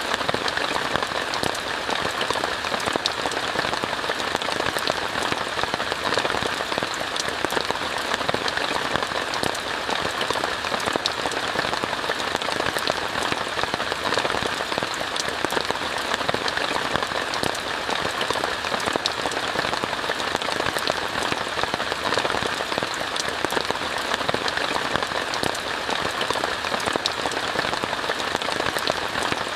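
Steady rain falling on a tent, heard from inside: an even hiss dotted with many sharp individual drop hits, unchanging throughout.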